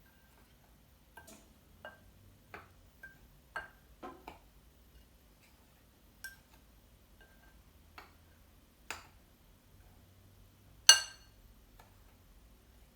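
A utensil clicking and tapping against a bowl as seasoning is stirred into flour: a dozen or so irregular light taps, then one much louder ringing knock about eleven seconds in.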